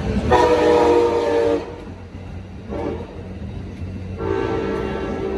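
Coaster commuter locomotive's horn sounding the grade-crossing signal: a long blast, a short one, then another long one starting near the end, over the low rumble of the moving train.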